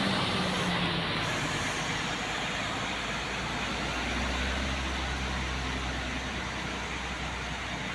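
Heavy-haul transformer transport truck passing slowly: a steady diesel engine drone under continuous road noise, slowly fading, with a deeper low drone coming in about halfway through.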